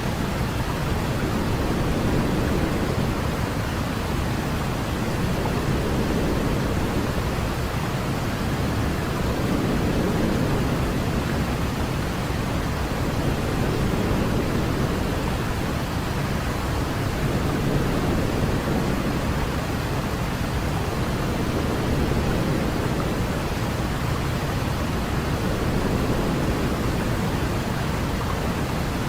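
Steady white noise played as a baby sleep aid: a smooth, even hiss, heavier in the low end, with gentle slow swells and no breaks.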